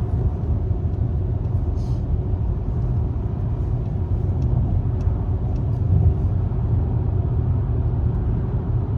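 Car heard from inside the cabin: a steady low engine and road rumble with a faint hum, unchanging throughout.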